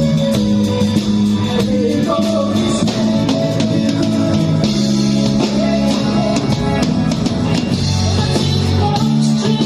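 A rock band playing, with electric guitar, bass notes and a drum kit keeping a steady beat.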